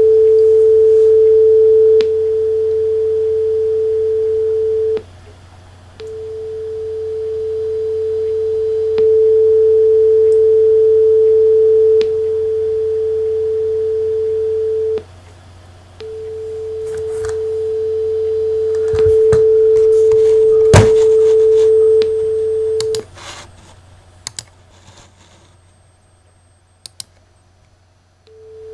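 Steady, mid-pitched sine test tone played from an HP ENVY 15 laptop through external speakers, in three stretches of several seconds with short breaks between. Its level steps down partway through each stretch and swells back up after each break. A low hum runs underneath, and several clicks, one sharp and loud about twenty-one seconds in, come after the tone stops.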